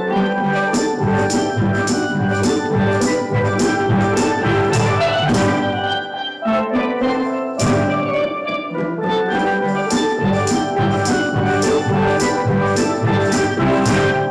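Steel drum band playing a tune with a steady drum beat under the pans; the music thins out briefly a little past the middle, then the whole band comes back in together.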